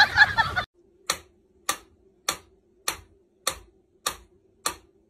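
Mechanical pendulum metronome ticking at a steady beat, a sharp click about every 0.6 seconds, over a faint steady hum. It follows a loud stretch of music that cuts off suddenly less than a second in.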